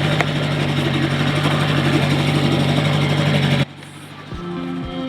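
Dinghy's outboard motor running at a steady pitch under way, with a rushing wash of noise over it. About three and a half seconds in it cuts off abruptly and gives way to background music with plucked bass notes.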